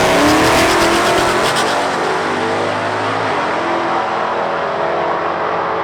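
Drag-racing vehicles launching off the line and accelerating hard down the strip at full throttle, the engine note climbing over the first second and then holding with a change in note about three seconds in.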